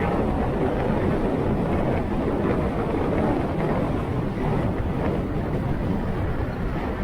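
Steady wind rush and road noise from a moving motorcycle, wind buffeting the microphone.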